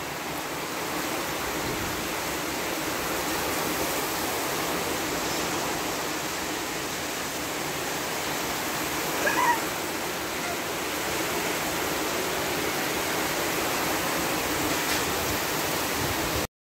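Heavy rain pouring down steadily, a dense even hiss of falling water. About nine seconds in, a short high call rises briefly above it. The rain cuts off abruptly near the end.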